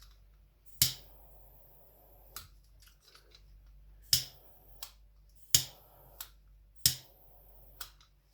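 A lighter clicked four times, each strike followed by a short low hiss of flame and a softer click as it is let go, heating shrink tubing over a soldered joint.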